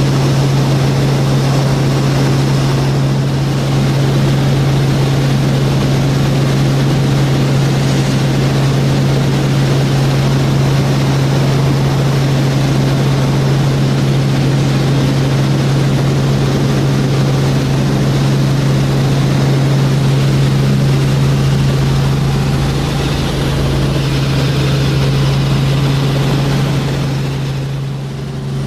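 Tour helicopter heard from on board in flight: a loud, steady rotor and engine drone with a constant low hum.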